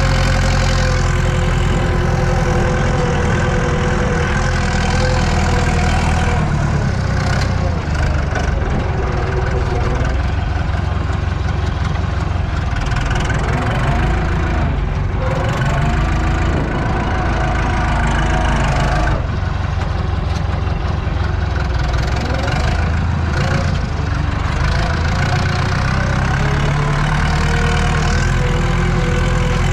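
Tractor diesel engine running under load, heard from inside the cab. Its pitch dips and rises a few times in the middle stretch, then settles steady again.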